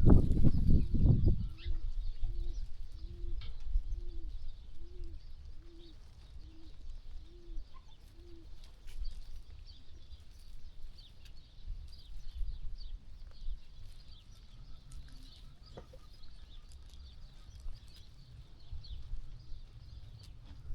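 A dove cooing a run of about nine evenly spaced, soft notes, under faint high bird chirps and a low background rumble. A loud low noise fills the first second or so.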